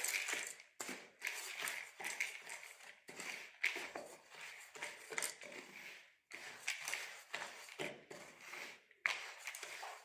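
Dry bird-suet mix of flour, birdseed, raisins and corn being stirred in a bowl: rhythmic scraping and rustling strokes, about one and a half a second.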